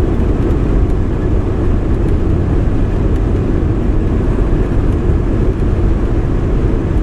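Steady road and engine noise heard from inside the cab of a 22-foot RV cruising on the interstate, a dense low rumble with no separate knocks or tones.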